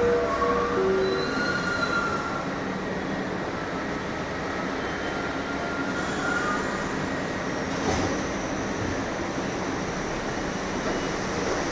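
New York City subway train running through a station, steady rumble with steel wheels squealing on the rails in thin high tones, most in the first couple of seconds.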